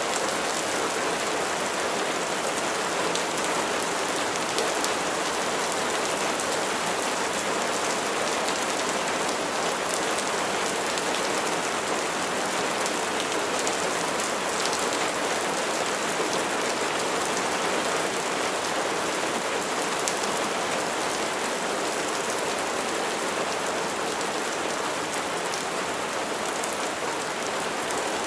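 Steady rain falling, an even hiss with many small sharp drop ticks on top, without pause or change.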